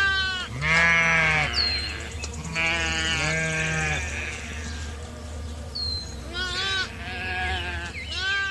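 Sheep bleating again and again: about six wavering bleats, deep ones overlapping with higher-pitched ones in the middle, over a steady low hum.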